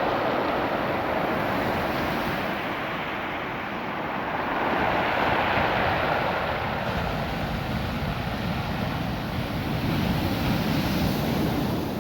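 Ocean surf washing over a beach of small rounded stones, the stones rattling and grinding under the moving water. A continuous rushing that swells louder twice, about halfway through and near the end.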